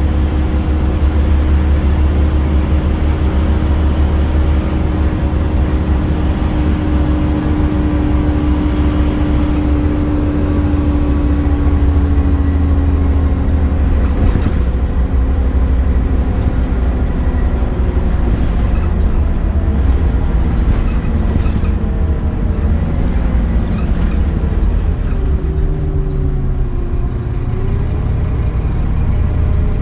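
Scania Omnicity bus under way, its engine and drivetrain giving a steady low rumble. The engine note slowly falls over the first dozen seconds, then rises and falls again near the end, with a few light rattles in between.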